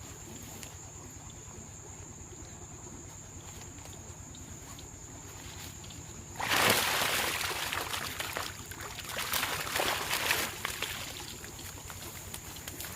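Water splashing and sloshing, starting suddenly about halfway and wavering for several seconds, as a catch of fish is lifted out of the water in a keep net.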